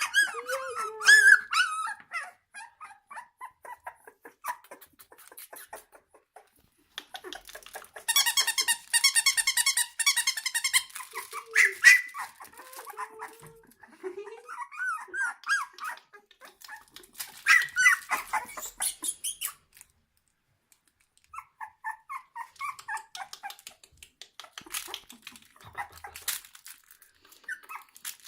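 Three-week-old Australian Kelpie puppies whimpering, squeaking and yipping, with soft clicks between the cries. A stretch of dense, shrill squealing comes about a third of the way in, and there is a brief lull about two thirds through.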